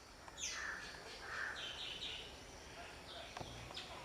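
Birds calling with a run of chirps and call notes. The first note, about half a second in, slides down in pitch, and shorter repeated notes follow.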